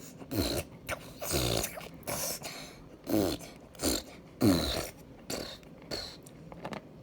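A child's voice making exaggerated, growly eating noises: about five loud grunts, each falling in pitch, with smacking clicks between them.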